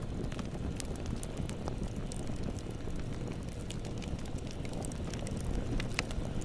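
Bonfire burning steadily with a low rumble and scattered sharp crackles and pops from the burning wood.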